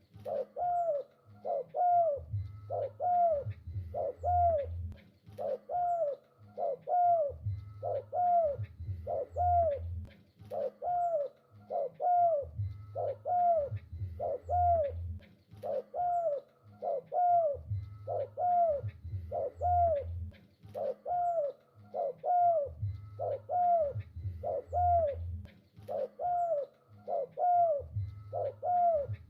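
Spotted dove (tekukur) cooing over and over: short arched notes about twice a second, with groups of deeper coos every five seconds or so.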